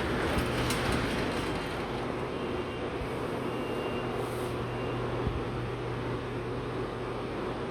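Shanghai Metro Line 9 train heard from inside the car as it sets off after its doors have closed: steady running noise with a low hum and a single click about a second in.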